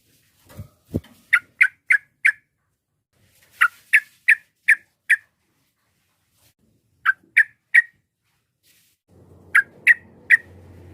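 Yellow-vented bulbul calling in quick groups of three to five short, sharp notes with pauses between the groups. A brief low thump comes about a second in, and a low hum starts near the end.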